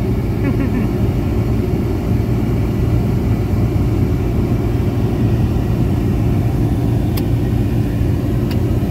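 Car driving, its steady low road and engine rumble heard from inside the cabin.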